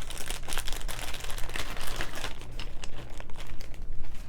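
Plastic packaging crinkling and rustling in the hands, with irregular crackles throughout.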